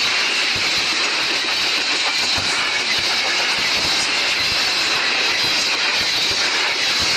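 Long freight train of many wagons running on the rails: steady wheel-on-rail noise with a faint high ringing tone and scattered low knocks from the wagons.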